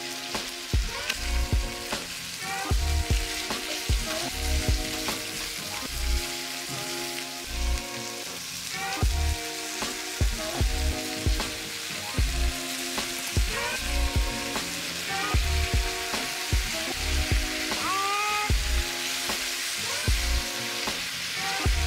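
Pork, eggplant and bell peppers sizzling as they are stir-fried in a frying pan, over background music.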